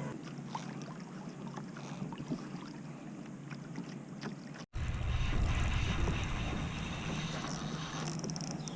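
Water lapping and small splashes around a kayak. About halfway through there is a sudden break, then a steady low rumble of wind on the microphone.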